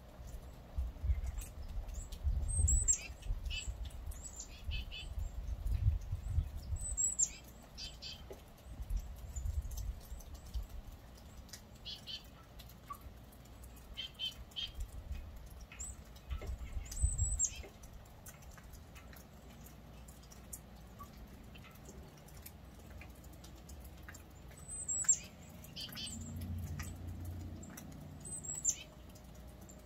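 Small birds calling: short high chirps that sweep downward in pitch, in clusters every few seconds with a longer gap midway. Low rumbling comes and goes through the first half.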